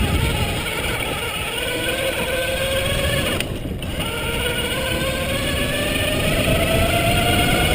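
Electric bike motor whining under power, its pitch climbing steadily as the bike picks up speed. The whine drops out briefly about three and a half seconds in, then climbs again. Underneath runs a low rumble of wind and tyres on the dirt trail.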